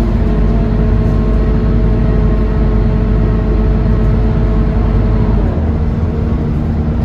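Scania K230UB bus's five-cylinder diesel engine running steadily with the bus under way, a low drone with a steady whine above it. About five and a half seconds in, the engine note and the low rumble change, as at a gear change or a let-off of the throttle.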